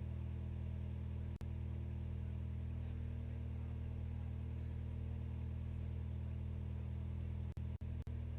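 Race car engine running at a steady speed, one unchanging low note with its overtones; the sound cuts out for an instant once early on and three times near the end.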